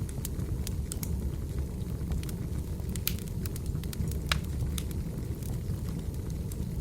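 Burning firewood crackling: irregular sharp pops and snaps over a steady low rumble of the fire, with a louder pop about three seconds in and another just past four seconds.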